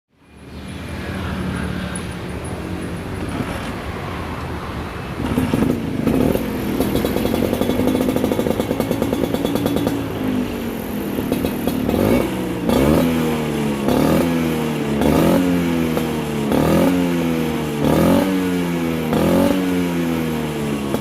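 Vespa scooter running through a newly fitted DRP PS Strada aftermarket exhaust: idling, then held at higher revs, and from about halfway the throttle is blipped again and again, each rev jumping up sharply and falling back.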